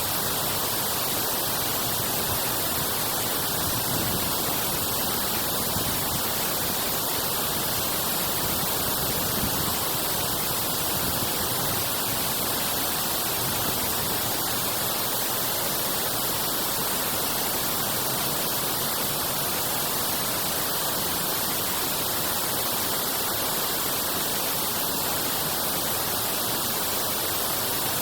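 Water rushing steadily through a drainage: an even, unbroken hiss.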